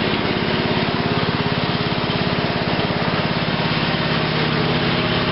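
The 12-horsepower Briggs & Stratton engine of a 1987 Rally lawn tractor running steadily just after a cold start.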